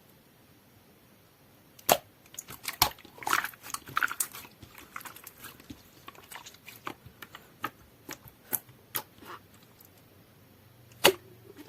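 Clear, jelly-textured slime being squeezed and pressed by hand, giving sharp sticky clicks and pops. It starts about two seconds in, thins out after about nine seconds, and ends with one loud pop near the end.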